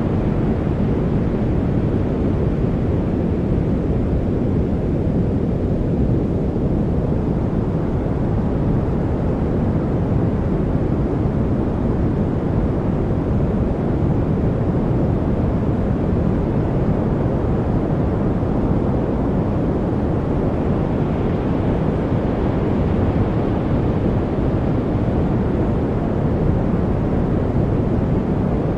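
Steady, unchanging rush of noise from a continuous white-noise track. It is deep, with most of its sound low down and little hiss.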